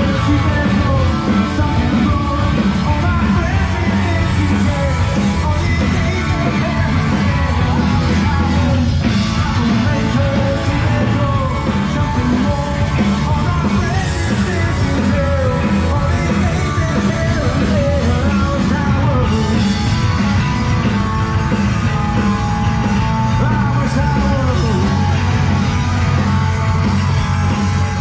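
Live punk rock band playing loudly, the singer yelling the vocals.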